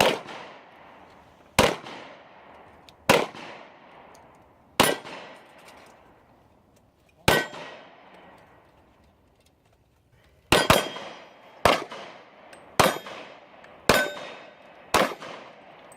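A string of about eleven gunshots on a firing range, fired at uneven intervals with two quick shots close together about ten and a half seconds in; several are followed by a short metallic ring.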